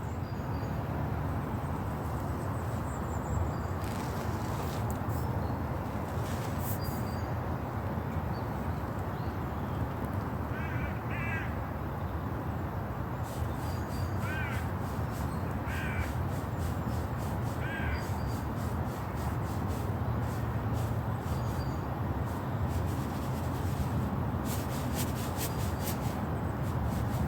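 A crow cawing about five times, in short harsh calls from roughly a third to two-thirds of the way through, the first two close together. A steady low rumble runs underneath.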